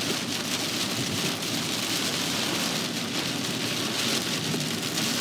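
Torrential rain pounding on a car's roof and windows, a dense, steady roar of drops.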